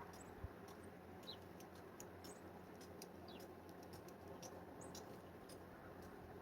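Near silence with faint high ticks and a few short, high chirps from small birds.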